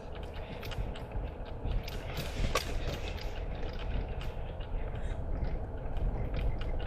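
Car driving along, heard from inside the cabin: a steady low road rumble with frequent small rattles and clicks.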